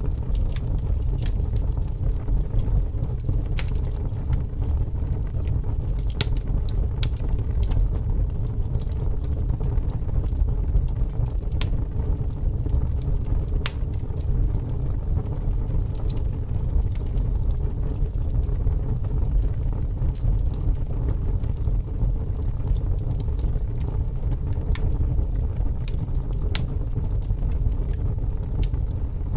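Fire crackling: a steady low rumble of flames with scattered sharp pops at irregular intervals.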